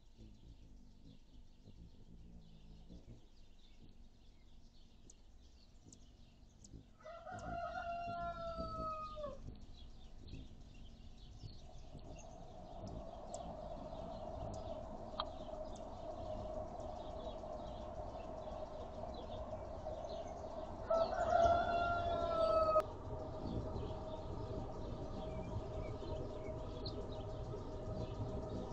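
A bird gives two long, loud calls, each about two seconds and dropping in pitch at its end, over a steady scatter of small high chirps from other birds. A steady hum comes in partway through.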